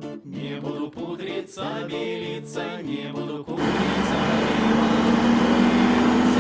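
Folk song with singing cuts off abruptly about three and a half seconds in. A motorcycle then runs with a steady engine drone under loud wind noise.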